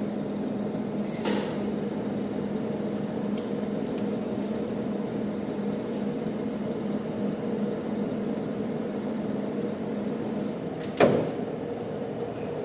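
Manual metal lathe running steadily with a humming drone, with a light click about a second in and a single sharp knock near the end.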